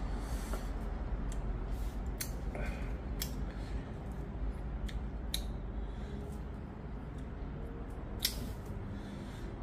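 Close-up eating sounds: a person chewing, with scattered sharp clicks and smacks, over a steady low hum.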